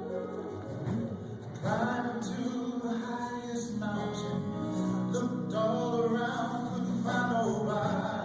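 Music with singing: voices sing a melody over steady held low accompanying notes, the singing coming in strongly about one and a half seconds in.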